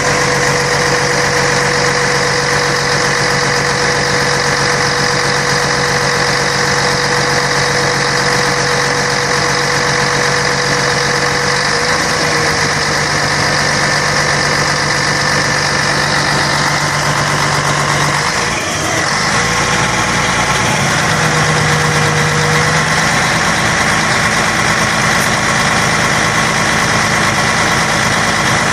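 Scania K113 bus's six-cylinder diesel engine running steadily, with a brief dip in the sound about two-thirds of the way through.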